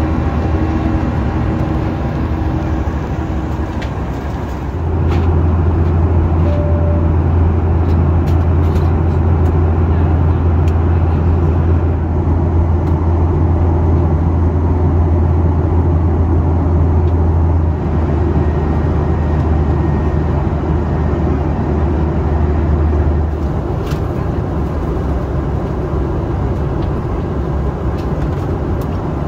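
Steady in-flight cabin noise of a Boeing 737: the rush of engines and airflow with a deep drone beneath it, which grows louder about five seconds in and eases a little near the end.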